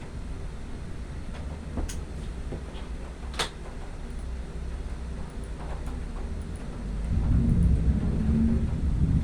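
Thunder rumbling low and steady, swelling much louder about seven seconds in, with a few sharp clicks before that.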